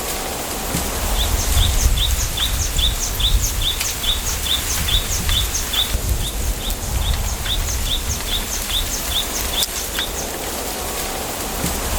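Bamboo grove ambience: a small bird repeating a short, high, falling chirp about three times a second, pausing for a couple of seconds near the end before starting again. Under it runs a steady low wind rumble, with a few faint clicks.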